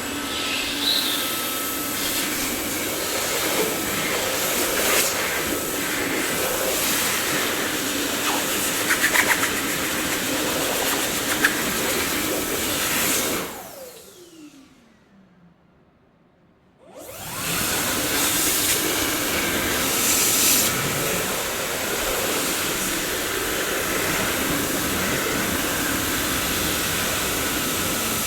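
Dyson vacuum cleaner running with a steady rushing noise, with a few light clicks partway through. About halfway through it is switched off: the motor winds down with a falling whine to near silence. Some three seconds later it starts up again and runs on steadily.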